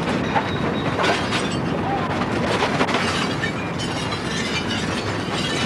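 Earthquake shaking: a continuous rumble with dense clattering and rattling of loose objects.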